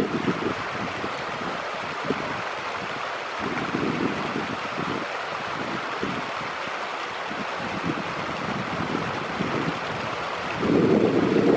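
Wind buffeting the camera's built-in microphone in low gusts, strongest around four seconds in and again near the end, over a steady rushing hiss.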